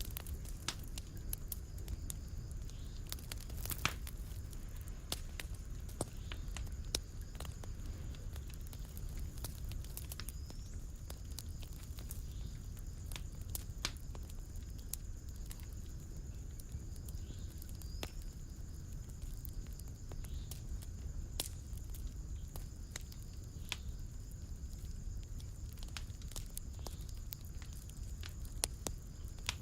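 Wood fire in a fireplace crackling: irregular sharp pops and snaps, one louder pop about four seconds in, over a steady low rumble.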